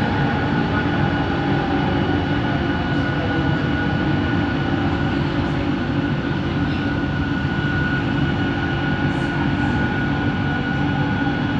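Kelana Jaya Line LRT car in motion, heard from inside: a steady rumble with a steady high motor whine over it, the line's original motor noise.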